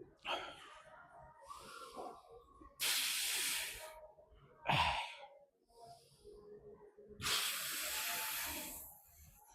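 A person breathing hard: two long, forceful breaths blown out, the second lasting nearly two seconds, with a shorter sighing breath between them.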